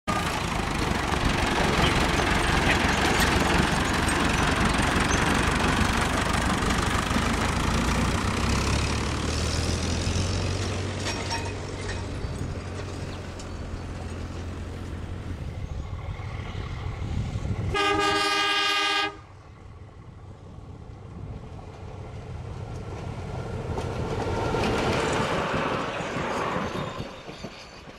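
Tractor engine running close by at first. Then a diesel train's horn sounds one blast of about a second that cuts off sharply, and the train's carriages rumble past close by, swelling and fading near the end.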